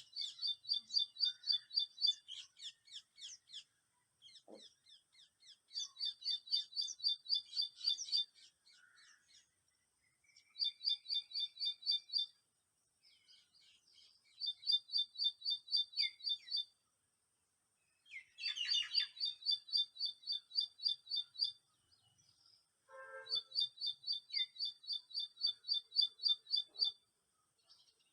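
A bird singing runs of quick, high, evenly spaced chirps, each run lasting one to three seconds, about six runs in all with short pauses between them.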